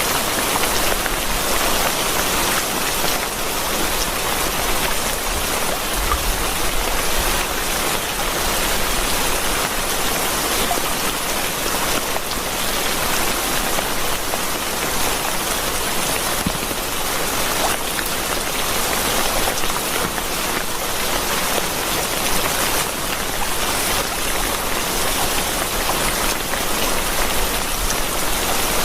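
Steady rain falling: an even, unbroken hiss of drops with scattered small ticks.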